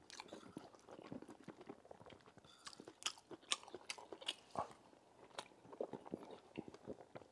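Close-up, faint chewing and lip smacking of a mouthful of rice and palm-nut stew, with short wet clicks at irregular intervals.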